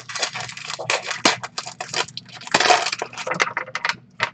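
Crinkling and crackling of trading card packs and wrappers being handled, a quick irregular run of crackles with a louder burst a little past halfway.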